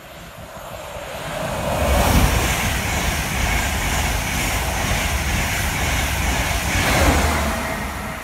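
LNER express passenger train passing close at speed: the sound builds over the first two seconds into a steady rush of wheels on rail and air, with a deep rumble beneath, then eases off near the end as the train goes by.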